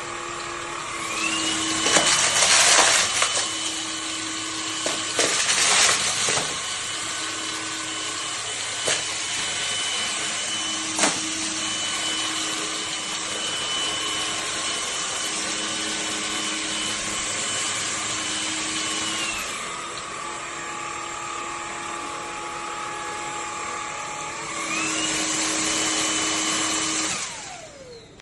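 Cordless stick vacuum's brushless motor running with a high whine. It spins up about a second in, drops to a lower speed about two-thirds of the way through, spins up again, then winds down near the end. Several knocks and rattles come in the first half.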